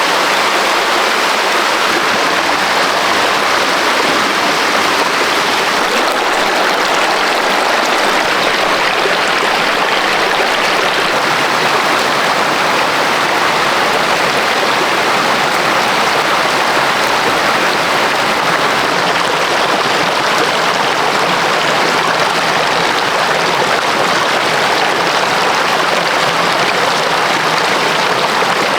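Rushing stream water: a steady, loud, unbroken rush.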